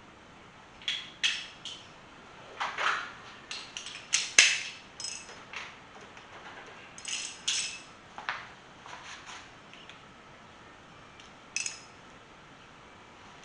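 Metal clinks and taps, irregular and scattered, some with a short ring, as head bolts and their washers are handled and set into an LS engine's cylinder head.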